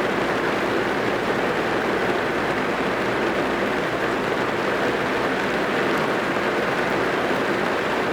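Rain drumming steadily on a car's roof and windows, heard from inside the cabin as a dense, even patter.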